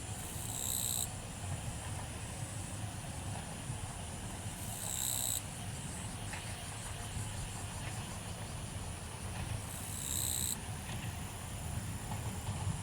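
Summer insects buzzing steadily at a high pitch, with a short, higher call coming three times, about every five seconds. A steady low rumble sits underneath.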